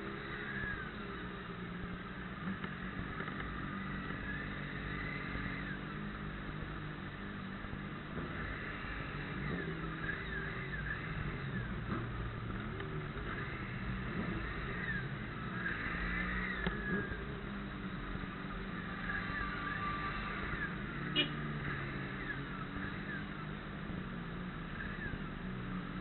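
Steady motor-vehicle engine hum, with scattered short high chirps or squeaks over it and a single sharp click about 21 seconds in.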